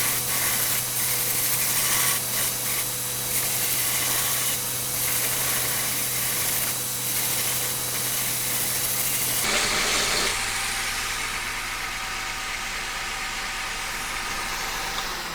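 Electric sander running steadily with a hissing grind and a motor hum; its tone changes and drops slightly about nine and a half seconds in.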